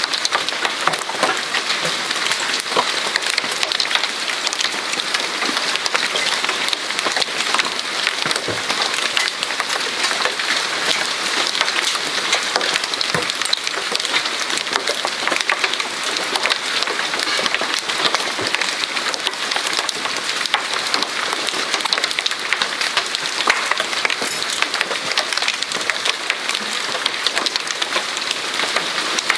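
Hail and rain pelting down in a storm: a dense, steady clatter of countless small impacts.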